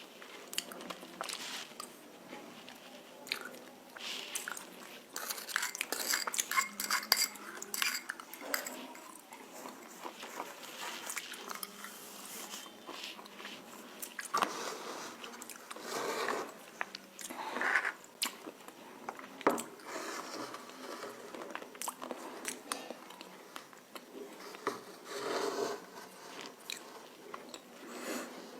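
Close, crunchy biting and chewing of roasted nakumatt with red clay paste: irregular sharp crunches and crackles between quieter chewing.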